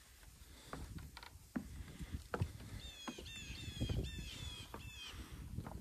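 Footsteps knocking on a wooden boardwalk. In the middle a bird calls in a quick run of about six notes.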